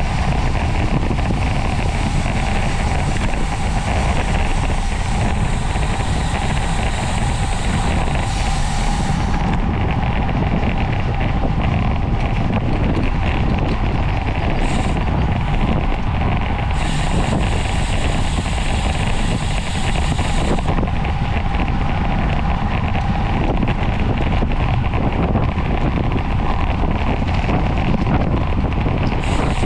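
Wind rushing and buffeting over the microphone of a camera on a road bike ridden at speed, a steady deep rumble with a faint hum underneath. A high hiss comes and goes a few times.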